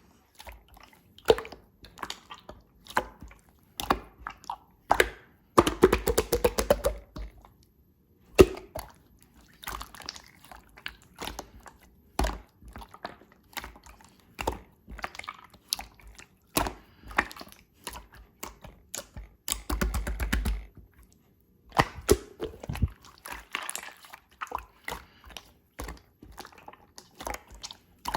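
Clear slime being squeezed and pressed by hand, giving irregular wet clicks and snaps as air pockets pop. Twice, about six seconds in and about twenty seconds in, it breaks into a rapid run of crackling pops.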